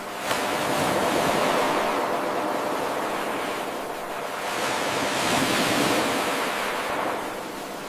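Ocean waves washing in and drawing back in two swells. It is an eight-second wave recording looped end to end, and the surf jumps up suddenly a fraction of a second in, where the loop starts again.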